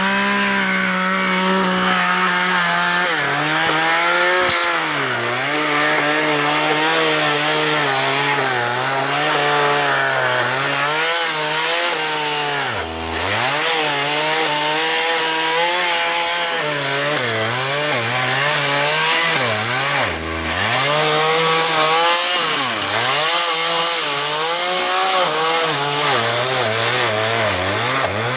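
Two-stroke chainsaw cutting wood. The engine pitch drops as the chain bites about three seconds in, then wavers under load and sags hard twice, near the middle and again a few seconds later.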